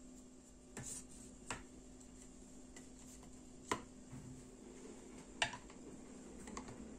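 A few light clicks and taps, irregularly spaced, from objects being handled, the two near the middle and later the sharpest, over a faint steady hum.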